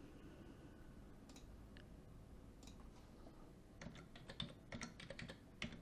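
Faint computer keyboard typing: a few isolated clicks, then a quick run of key clicks from just under four seconds in until near the end.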